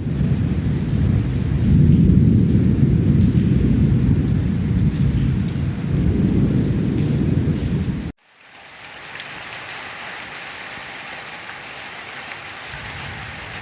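Rainstorm sounds: a heavy low rumble for about eight seconds, then after a sudden cut, steady rain hissing.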